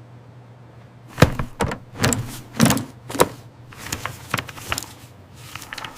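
A string of sharp knocks and clicks at irregular intervals: about five strong ones in the first half, then lighter, quicker ones.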